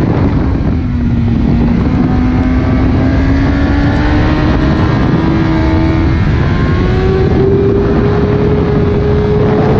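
Suzuki GSX-R1000 K5's inline-four engine pulling hard, its pitch climbing slowly and steadily as the bike accelerates through the bends, under heavy wind rush on the microphone.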